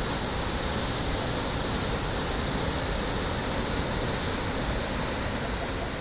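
Steady rushing of Perunthenaruvi waterfall, falling water on the Pamba river.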